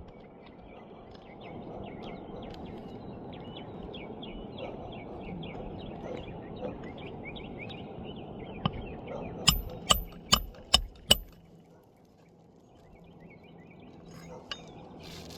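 Hammer strikes on a roof: one light blow, then a quick run of five sharp strikes about 0.4 s apart. Birds chirp in the background over a steady outdoor hum.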